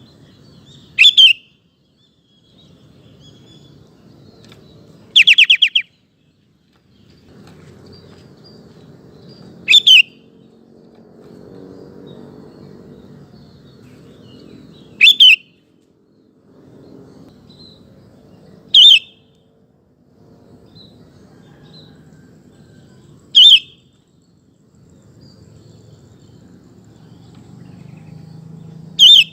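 Sooty-headed bulbul (kutilang) giving short, loud calls, seven in all, about one every four to five seconds; the second is a quick rattling run of notes. A faint low rumble and a few faint chirps lie between the calls.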